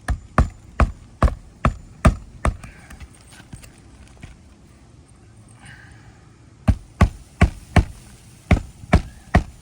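Hammer driving roofing nails into asphalt shingles: two runs of quick, evenly spaced blows, about two or three a second, with a pause of about four seconds between them. The shingles are brittle and weathered, and the hammering itself knocks granules loose and cracks the tabs around the repair.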